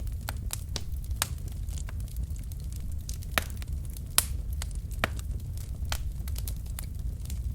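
Wood fire burning in a fireplace: irregular sharp crackles and pops from the burning logs over a steady low rumble of the flames, with the loudest pops about three and a half and four seconds in.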